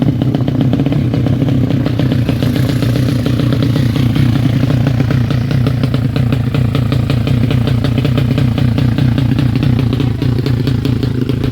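Honda Karisma motorcycle's single-cylinder four-stroke engine running steadily and loud, its firing pulses rapid and even, while being tuned.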